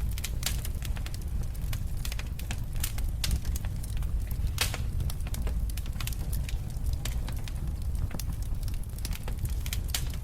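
Wood fire burning in a fireplace, crackling with frequent irregular pops and snaps over a low steady rumble of the flames.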